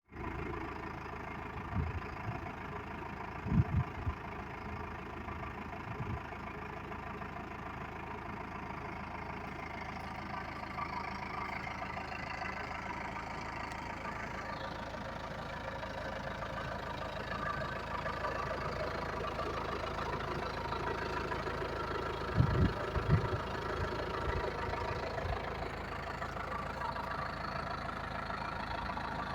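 Yanmar L50SS diesel engine running steadily, with a few short low thumps along the way.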